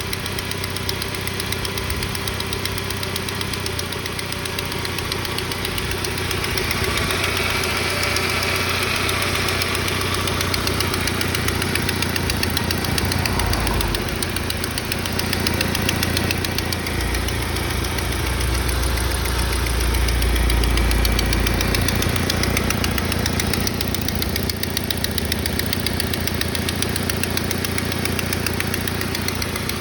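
SAAB 9-5's B235E 2.3-litre turbocharged four-cylinder engine idling, with a fast, steady knock from under the valve cover around the fourth cylinder. The knock is heard on a cold engine and goes away once it warms up.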